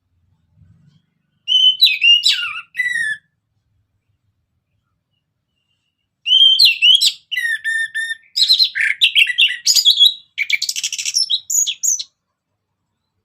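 Orange-headed thrush singing: a short phrase of varied whistled notes about a second and a half in, then a longer, faster run of clear whistles and chattering notes from about six to twelve seconds in.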